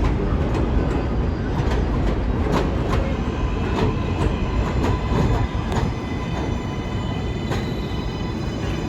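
New York subway train running through on elevated track, a steady rumble with wheels clicking sharply over rail joints. In the last few seconds a steady high-pitched motor whine of several tones rises above the rumble.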